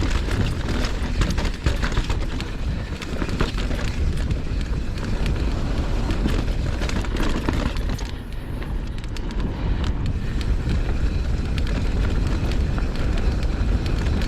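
Mountain bike descending a dirt trail: wind rushing over the microphone, with tyre noise and a steady clatter of small knocks and rattles from the bike.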